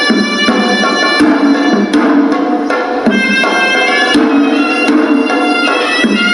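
Hewisi temple music: a horanewa, a Sri Lankan double-reed shawm, plays a reedy melody in long held notes over traditional drums striking in an uneven rhythm.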